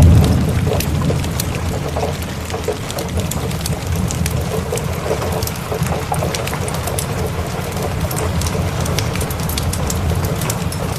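Steady rain with a low rumble of thunder that is loudest at the start and dies down over the first couple of seconds, with the sharp crackles of a wood fire throughout.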